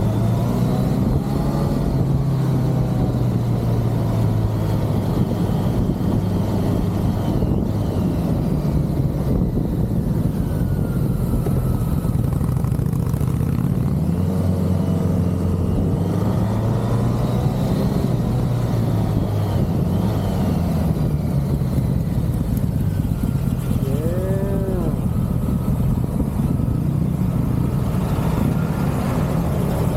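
1985 BMW K100 motorcycle's inline-four engine running on the road, its pitch rising and falling several times as the bike speeds up and slows, under a constant rush of wind noise. A brief rising-then-falling tone comes about 24 seconds in.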